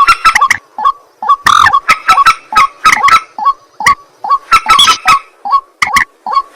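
Recorded calls of rails, white-breasted waterhen and common moorhen: a loud, unbroken run of short, harsh honking notes, several a second.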